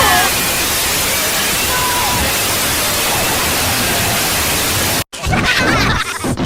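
Loud, steady hiss of static noise, like a detuned TV, that cuts off suddenly about five seconds in. Voices follow right after.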